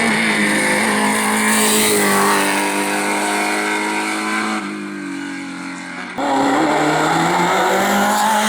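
Race car engine at high revs, its pitch easing down slightly, then a quieter stretch; about six seconds in it comes back loud and climbs in pitch as the car accelerates hard.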